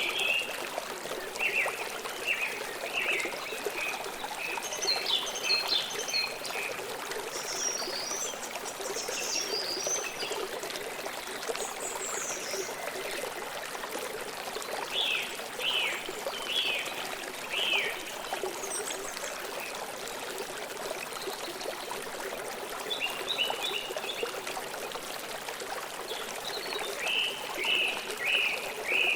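Stream water flowing steadily, with small birds giving groups of short, high chirps every few seconds.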